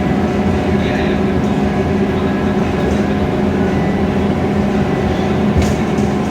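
Scania K320iA CNG city bus under way: steady engine drone with road and body noise, and a short sharp rattle about five and a half seconds in.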